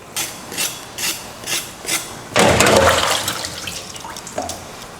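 Pot of curry chicken back boiling, with thick bubbles popping about twice a second. A louder watery rush comes about two and a half seconds in and fades after a second or so.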